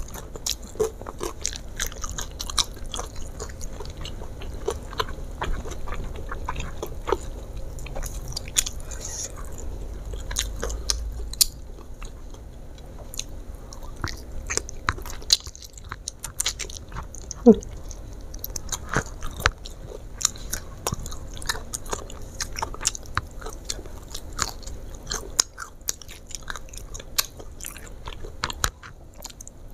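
Close-miked chewing and crunching of crispy fried chicken, with many irregular sharp crunches.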